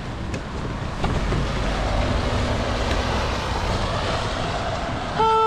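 Steady road traffic noise from vehicles on the street. Near the end a car horn starts sounding one steady blast.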